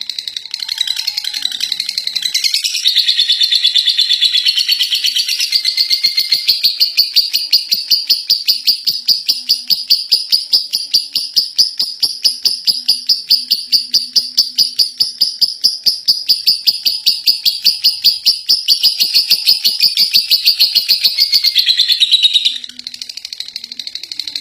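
Lovebird 'ngekek': a long unbroken run of rapid, high chattering notes, several a second, building up in the first few seconds and falling back to quieter chirping about 22 seconds in.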